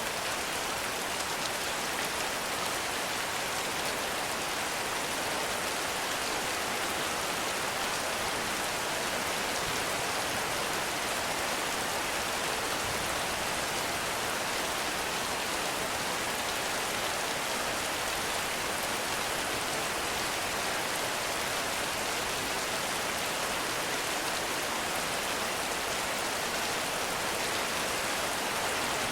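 Heavy rain falling steadily: a dense, even hiss of drops that holds constant throughout.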